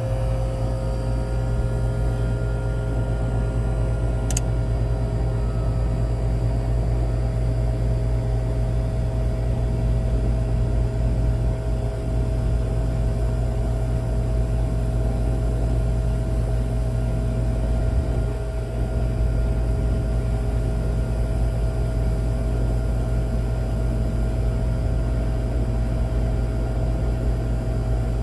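Air-conditioner outdoor unit running on its newly replaced dual capacitor, with a steady low electrical hum and machine noise. There is a single sharp click about four seconds in.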